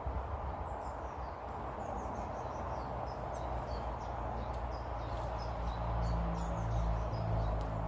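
Small garden birds chirping, with many short, high calls overlapping, over a steady low rumble that grows louder past the middle.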